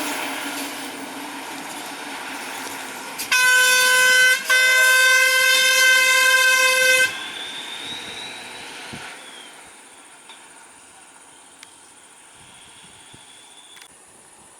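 Vehicle horn, possibly of a bus, blowing two blasts: a short one of about a second, then a longer one of about two and a half seconds. Before the horn, vehicle engine and road noise fade away.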